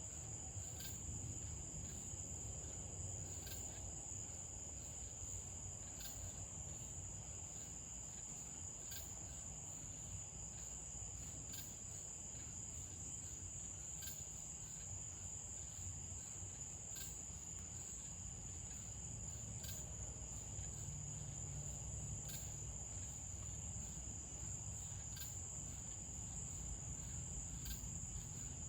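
Crickets trilling in one steady, high-pitched chorus, with a short sharper chirp every two to three seconds, over a faint low rumble.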